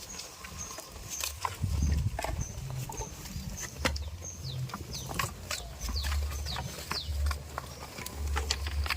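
Goat farmyard sounds: scattered sharp clicks and knocks from the animals, small birds calling with short high chirps about once a second and quick falling whistles, and bursts of low rumble.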